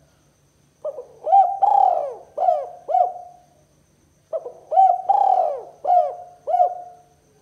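Spotted dove (tekukur) cooing the 'kuk 2' song that bird-keepers use to lure rival doves. It sings two phrases of five or six coos each, a little over a second apart.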